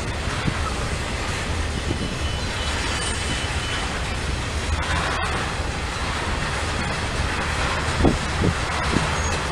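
Freight train passing with a steady rumble, and a few short falling squeaks near the end.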